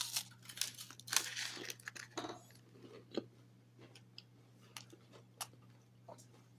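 A person biting into a Nature Valley Honey Vanilla wafer bar and chewing it: crisp crunches, densest in the first couple of seconds, thinning to fainter, sparser chewing.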